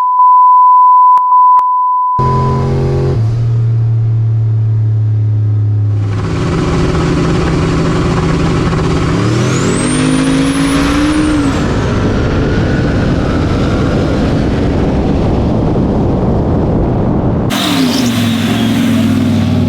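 A loud steady electronic beep lasts about two seconds. Then a high-horsepower drag-racing truck engine idles and goes to full throttle down the strip, with a high whine rising sharply and falling back as it pulls.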